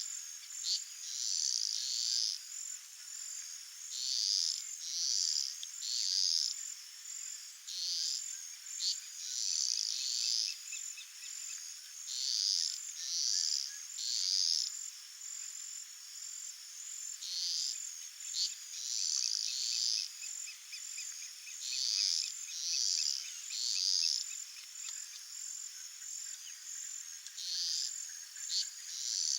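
Chorus of calling animals: high-pitched buzzy calls about a second long, coming in groups of two or three every few seconds, over a steady high hiss, with a fainter fine trill now and then.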